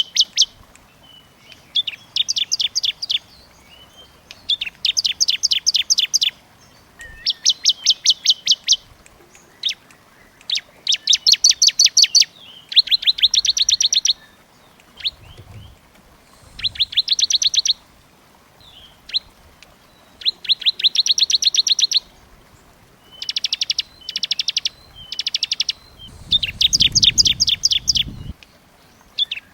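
Small songbird singing a dense series of rapid, high, chattering trills. About a dozen trill phrases come one to two seconds long each, separated by short pauses. This is a small-bird 'masteran' song recording of the kind used to tutor caged songbirds.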